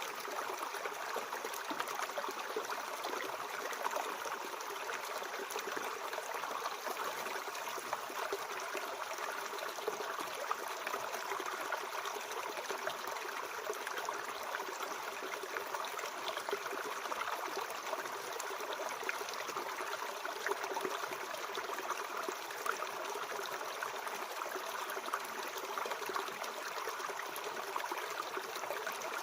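Mountain stream flowing, a steady rush of water over stones with trickling and gurgling.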